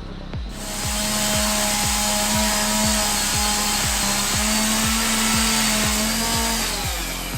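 Chainsaw running steadily, starting about half a second in and dying down near the end, over background music with a steady beat.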